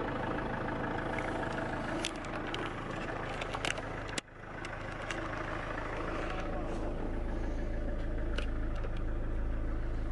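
GM Daewoo Winstorm SUV's engine idling steadily, with a few sharp clicks in the first half and a sudden brief drop in level about four seconds in.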